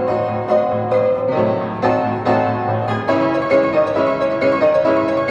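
Piano music: a melody of sustained notes and chords.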